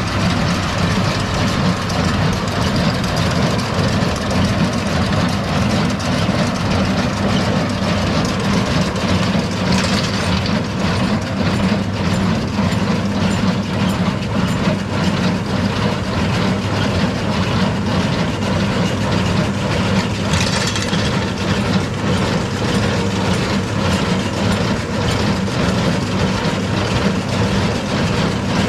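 Heavy engine running steadily at constant speed, with a fast rhythmic clatter over it.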